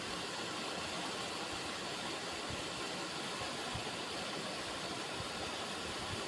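River water running, a steady unbroken rushing.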